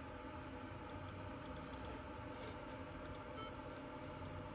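Light clicking of a computer mouse: about a dozen short clicks, several in quick pairs like double-clicks, over a low steady room hum.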